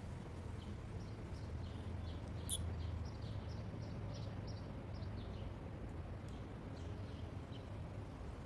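Outdoor ambience: small birds chirping in quick, high, repeated notes over a steady low rumble.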